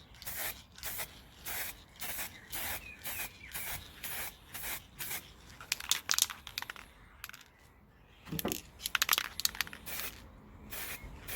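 Aerosol spray paint can sprayed in short, evenly spaced bursts of hiss, about two a second, for a light coat. About halfway through and again later the bursts give way to quick runs of sharp clicks.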